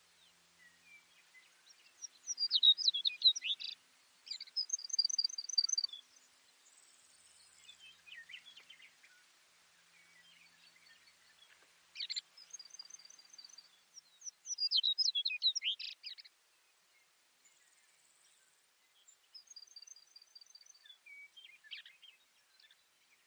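Baird's sparrow singing: three songs several seconds apart, each a cluster of high, quick notes and a short trill of evenly repeated notes.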